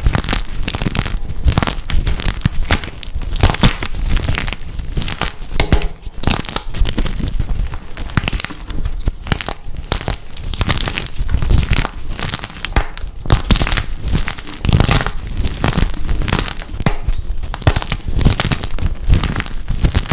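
Dyed gym chalk being crushed, a dense unbroken run of crunching and crackling.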